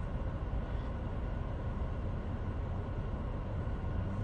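Steady low engine rumble of vehicles idling in stopped traffic, with no change in level.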